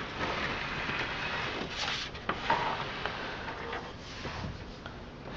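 A desktop computer case being turned around on a surface: scraping and rustling, then a few light knocks and clicks as it is handled.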